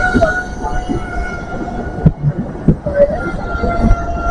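A GWR Hitachi Intercity Express Train running past the platform: a steady rumble with a high, even whine over it. Wheels knock over rail joints now and then, the sharpest about two seconds in.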